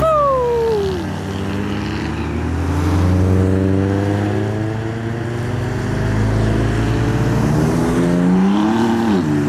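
Modified cars driving out past one after another, their engines and exhausts running continuously. In the first second one engine's pitch falls as it comes off the throttle, and shortly before the end another briefly revs up and back down.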